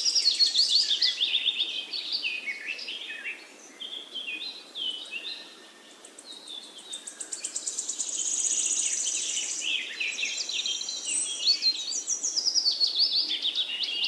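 Small birds chirping and singing, several at once: quick falling whistled notes and fast trills, with a brief lull midway.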